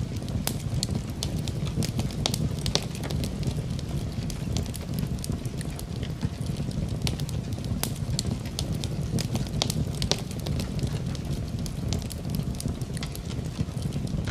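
Fire burning in a fireplace: a steady low rumble of flames with many small, irregular crackles and pops.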